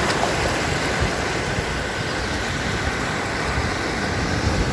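Ocean surf rolling onto a beach: a steady rushing wash of breaking waves.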